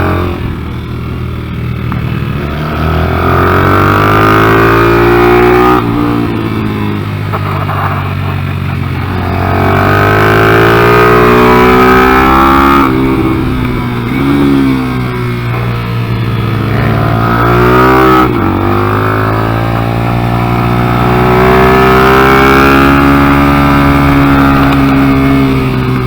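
Big-bore Yamaha TTR125 single-cylinder four-stroke engine in a Kayo MR125 pit bike being ridden hard. The pitch climbs under throttle and then drops sharply when the throttle closes or the rider shifts, about four times over the stretch.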